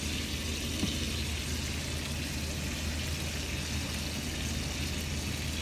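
Food frying in hot cooking oil in a pan: a steady sizzle, with a low hum underneath.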